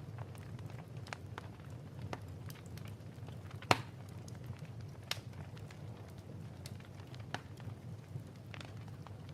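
Wood fire crackling in a fireplace: a low steady rumble with scattered pops and snaps, the loudest a sharp pop a little under four seconds in.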